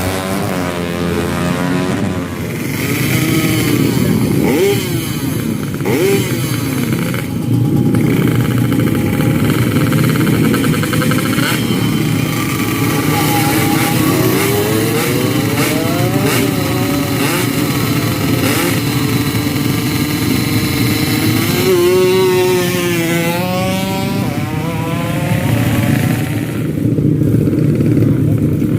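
Street drag-racing motorcycle engines, several at once, revving up and down with their pitch repeatedly rising and falling. A sharper rise and fall in pitch comes about three-quarters of the way through.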